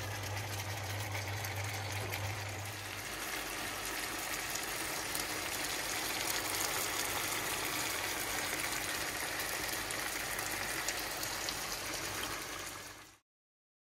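Lamb and onions simmering in a large pan and food frying in oil in a smaller pan: a steady bubbling, sizzling hiss, with a low hum under it for the first three seconds. It cuts off suddenly about thirteen seconds in.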